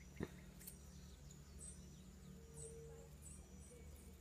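Faint small birds chirping in the background, short high chirps every half-second to a second, over a low steady hum. A single sharp click just after the start is the loudest sound.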